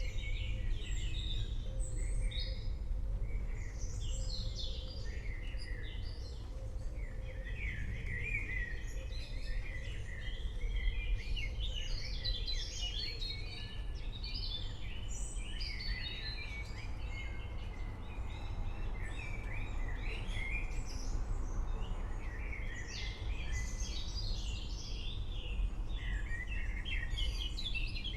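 Many forest birds chirping and singing at once, a dense, continuous chorus of short high calls, over a steady low rumble.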